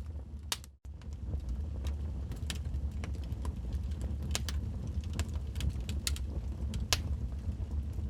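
Wood fire burning in a fireplace: irregular sharp crackles and pops from the burning logs over a steady low rumble of the flames. The sound cuts out for an instant just under a second in.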